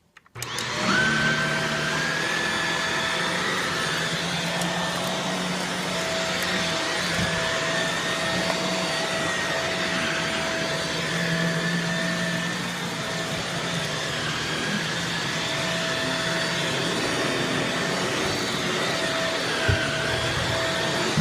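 Shark Rotator upright vacuum cleaner switched on and running steadily, its motor whine rising slightly in pitch just after it starts. A single knock near the end.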